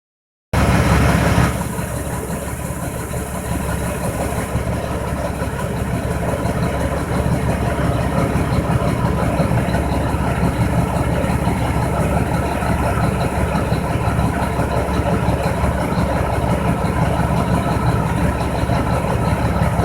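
Mack RD688 dump truck's diesel engine idling steadily.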